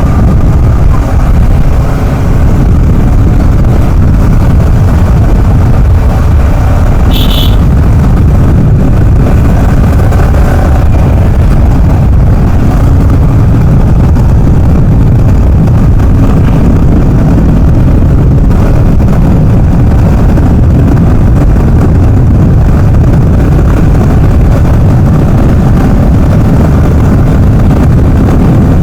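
Motorcycle running at road speed, with loud, steady wind rumble on the microphone. A brief click comes about seven seconds in.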